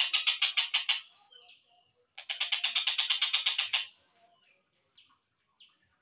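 Slowed-down recording of a tengkek buto kingfisher's rattling call: fast, even runs of repeated notes. One run stops about a second in, a second runs from just past two seconds to nearly four seconds in, and a few faint chirps follow.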